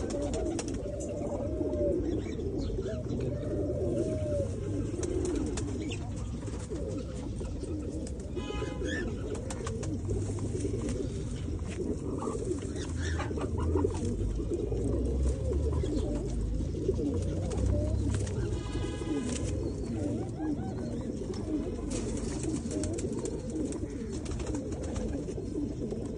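A flock of domestic pigeons cooing together in a dense, continuous chorus. A brief higher-pitched call cuts in twice, about eight and nineteen seconds in.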